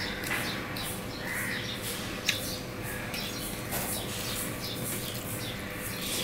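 Close-up eating sounds: wet chewing and lip-smacking on a mouthful of rice and curry eaten by hand, about two smacks a second, with one sharp click about two seconds in, over a faint steady hum.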